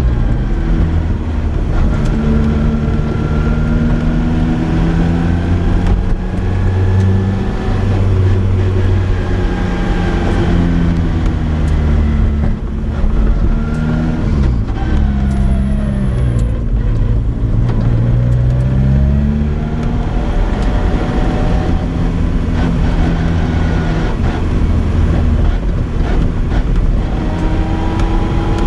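2004 Lotus Exige Cup's naturally aspirated Toyota 2ZZ-GE four-cylinder engine and loud exhaust on the move, its pitch climbing and dropping repeatedly with throttle and gear changes. About halfway through the revs fall away, then climb steadily again as the car pulls away.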